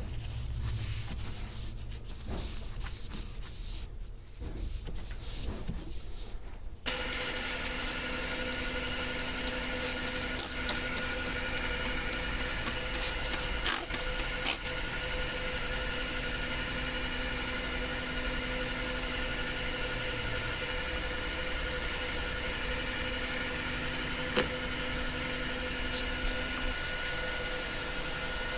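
Quiet handling noise with a few clicks. About seven seconds in, a small electric machine such as a power tool starts abruptly and runs at a steady, even speed.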